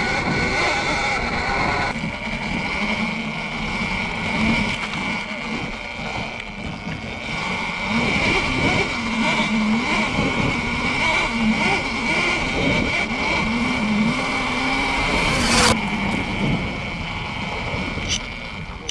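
Sur-Ron electric dirt bike being ridden: its electric motor gives a steady high whine and a lower hum that rises and falls with the throttle, over a rushing noise. The sound drops away near the end.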